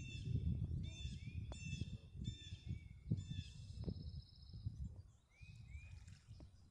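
Birds calling outdoors. A run of short, high calls repeats about twice a second through the first three seconds, then comes a brief high trill, and softer short slurred notes follow near the end. Underneath is a low rumbling noise with a few clicks.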